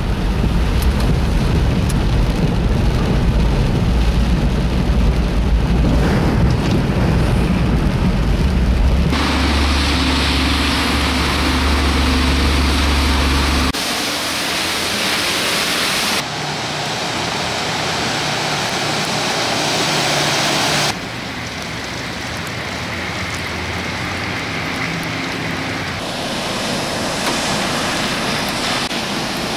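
Heavy rain with engine and traffic noise from vehicles in flooded streets, heard as a string of short clips that change abruptly every few seconds. A strong low rumble fills roughly the first half.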